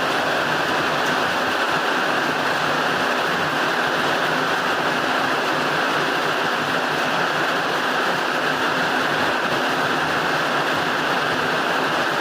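Steady heavy rain falling on a roof, an even hiss that neither rises nor falls.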